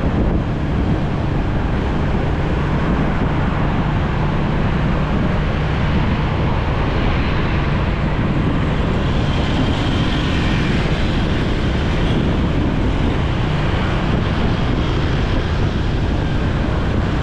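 Wind rushing over the microphone of a moving motorcycle, over the low, steady drone of its engine in road traffic.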